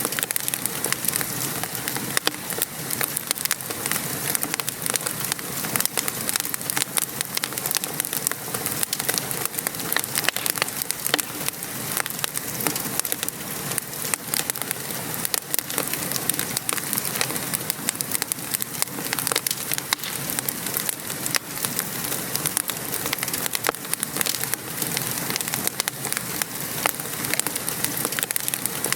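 Wood fire crackling and popping with many sharp snaps, over a steady patter of rain.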